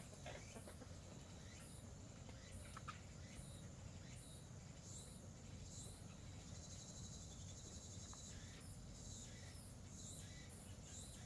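Faint insect chirping: a high chirp repeating about once or twice a second over a steady high insect drone, with a few soft clicks near the start.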